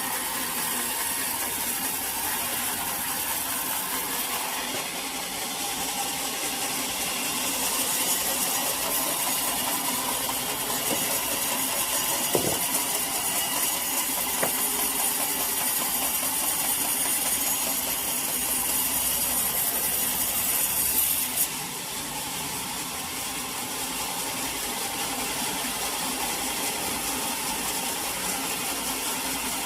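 Sawmill saw cutting through teak, a steady high hiss of the cut from about five seconds in that stops suddenly about twenty-one seconds in, while the machine keeps running underneath.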